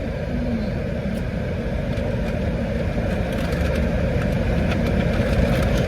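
Steady low rumble of a car heard from inside the cabin, growing slightly louder over the few seconds.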